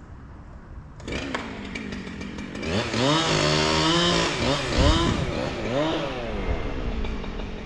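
Two-stroke chainsaw starting about a second in, then revved up and held at high speed, dropping back, revved briefly once more, and settling to a lower running speed.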